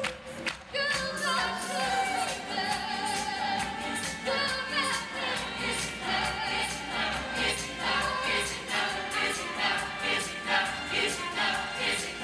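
A choir singing a pop song with a backing accompaniment and a steady beat; the sound drops briefly in the first second, then the full choir comes back in.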